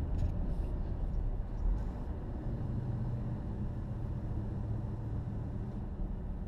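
Steady low road and engine rumble inside a vehicle's cabin while driving, with a faint low hum coming in about a third of the way through.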